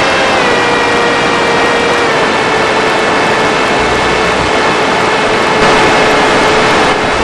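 Electric motor and propeller of an FPV Skyfun radio-controlled plane running at steady throttle: a steady whine that steps down slightly in pitch twice, over a loud rushing noise.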